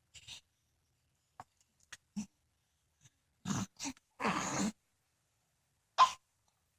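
A baby's short vocal noises: scattered little grunts, a longer breathy grunt a little past the middle, and a sharp squeak near the end.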